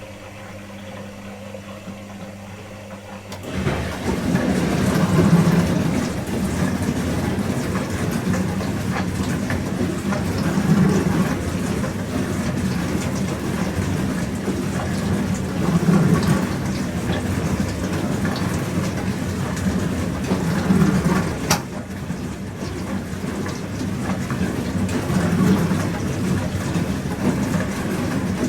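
Pro Action PRSLG96W slimline dishwasher running: a steady pump hum, then about three and a half seconds in water begins spraying inside the tub. The spray swells and fades about every five seconds, and there is a single sharp click near the end.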